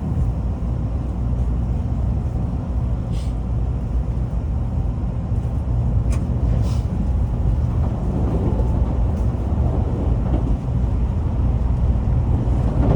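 Steady low rumble of a Tokaido Shinkansen train running, with a few brief clicks.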